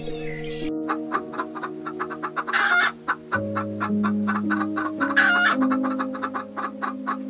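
Chickens clucking in a rapid run that starts under a second in, with two short, loud calls, one about a third of the way through and one about two-thirds through. Soft background music with held chords plays underneath.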